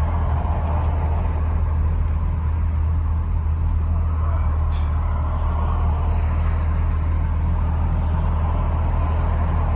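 A work truck's engine running steadily at low revs while towing a light load, with road noise; a brief click about five seconds in.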